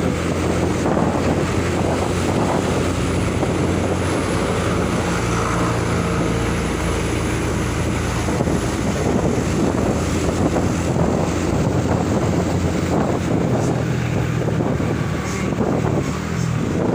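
Vehicle engine running steadily on the move, with road noise and wind buffeting the microphone.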